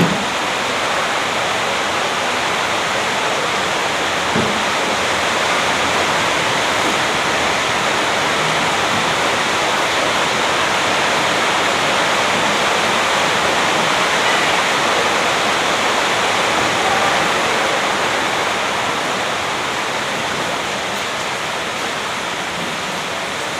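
Steady rushing hiss, loud and even, with a faint knock about four seconds in.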